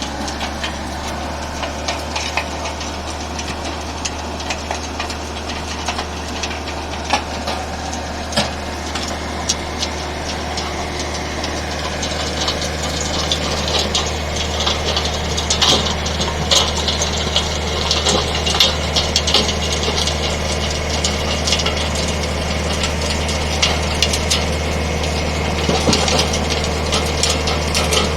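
Skid steer engine running steadily, with scattered clicks and rattles that grow busier and louder about halfway through.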